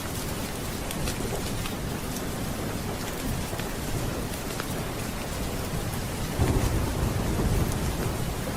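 Steady rain with thunder rumbling; a low roll of thunder swells about six seconds in. Scattered sharp ticks sit on top of the rain.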